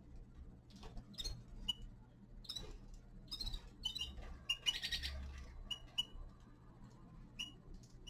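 Small caged finches giving short chirping calls, about a dozen scattered through, among scattered clicks and taps. There is a brief rustling flutter about five seconds in, over a steady low hum.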